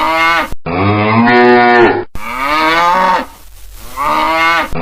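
Cow mooing: several long moos one after another, each cut off sharply where the next begins, as from spliced sound-effect clips.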